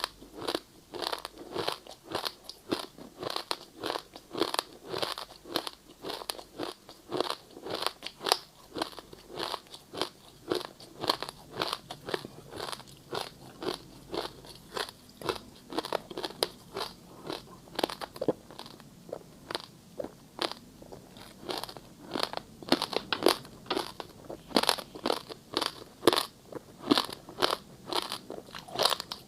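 Ice being bitten and chewed in the mouth, close to the microphone: a steady run of sharp, crunchy bites, about two a second.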